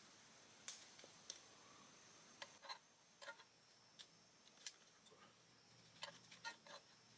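Near silence broken by faint, irregular sharp clicks and ticks, the loudest about two-thirds of the way through.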